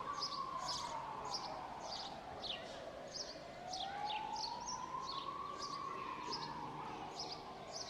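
A distant emergency-vehicle siren wailing slowly, its pitch rising and falling over about five seconds, under many birds chirping with short high falling notes.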